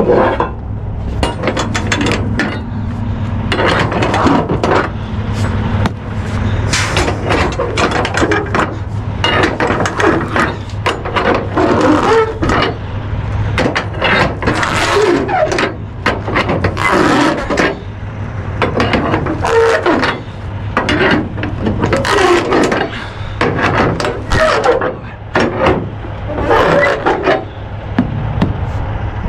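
Flatbed cargo straps being cranked tight, with the ratcheting clicks and knocks of the strap winch or ratchet coming in irregular runs. A steady low hum runs underneath.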